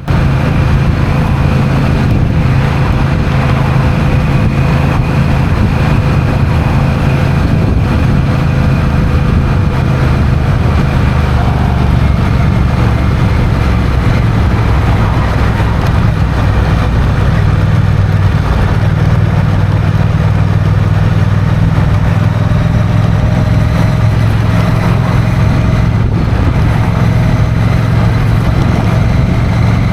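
Honda CMX1100 Rebel's 1,084 cc parallel-twin engine running steadily on the move, with a constant rush of wind and road noise.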